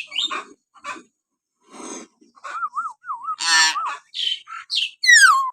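Common hill myna calling in a quick string of short, varied notes: harsh squawks, a whistle that warbles up and down in the middle, a loud rasping call just after, and a whistle sliding downward at the end.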